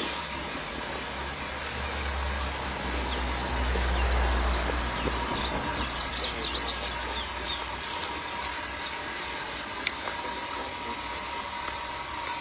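Low rumble of a vehicle engine that swells to its loudest about four seconds in and dies away after about eight seconds, while a short high falling chirp repeats about twice a second and birds call in the background.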